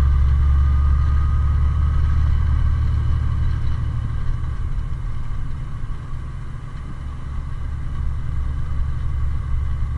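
Kenworth T660 tractor's diesel engine droning low, heard from inside the cab while it is being driven in gear. The engine sound eases off over the first six seconds or so, then builds again towards the end.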